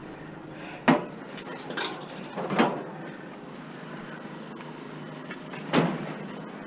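A few separate knocks and clunks, four spread over several seconds, with the sharpest about a second in and another near the end.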